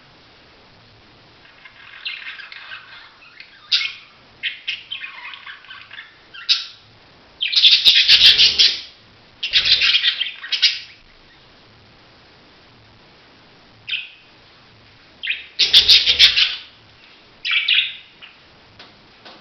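Budgerigars chirping and chattering in irregular bursts, loudest in two spells about eight and sixteen seconds in.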